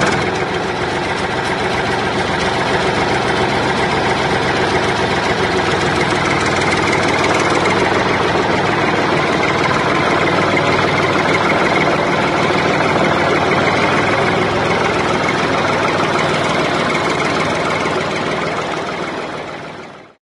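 Tractor-type engine idling steadily with a dense, even mechanical clatter; it cuts off suddenly at the end.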